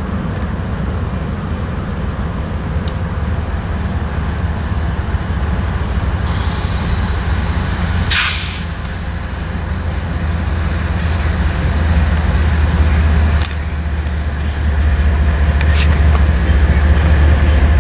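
Diesel freight locomotives rumbling low and steady, growing louder toward the end. A short hiss of air comes about eight seconds in.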